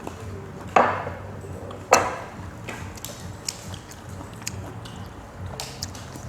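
A person eating, with two loud crunchy bites about a second apart, then softer clicks of chewing.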